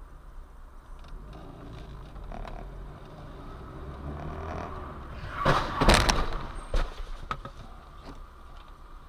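Vehicle collision: a steady road rumble, then a loud crash lasting about a second, starting about five and a half seconds in, followed by a couple of sharp knocks.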